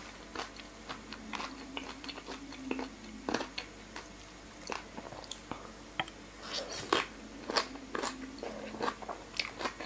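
Mouth sounds of a person chewing noodles and raw salmon: irregular wet smacks and clicks, coming thicker in the last few seconds as another bite of noodles goes in.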